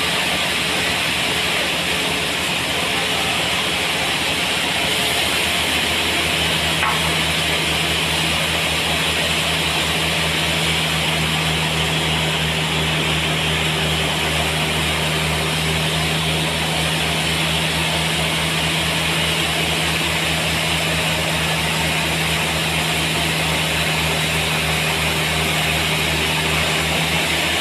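Sawmill running steadily: a low machine hum under a steady hiss. A steady low tone joins about six seconds in and holds until near the end.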